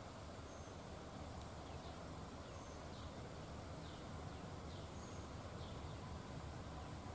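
Faint outdoor ambience: a bird repeatedly gives short falling calls, roughly one a second, with thin high notes in between, over a low steady rumble.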